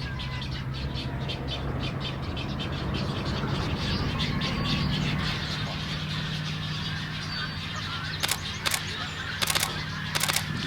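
Birds calling at a nesting colony of great egrets, double-crested cormorants and black-crowned night-herons: rapid, repeated chattering calls over a low steady hum, with a few short, sharp rasping sounds in the second half.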